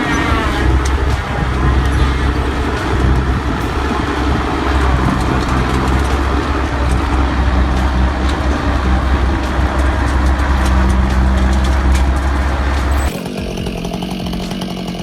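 A heavy machine's engine runs with a deep, steady rumble under scattered knocks and cracks. About 13 seconds in the sound changes abruptly to a steadier, higher drone, typical of a chainsaw running.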